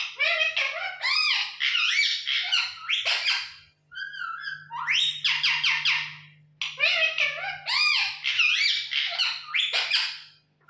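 Pet parrot giving repeated phrases of whistled, sliding chirps and squawky calls. The same run of calls comes twice, with short breaks between the phrases.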